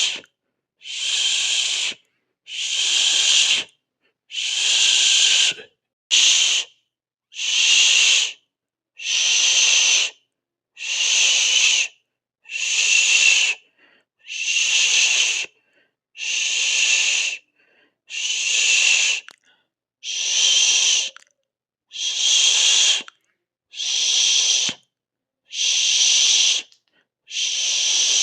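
A person making long, even 'shhh' hisses with the mouth, one after another: about seventeen hisses of a little over a second each, roughly one every 1.7 seconds, with short silent pauses for breath between them.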